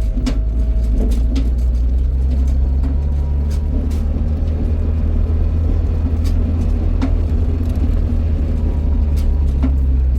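Motor vehicle running: a steady low engine drone with scattered light knocks and rattles.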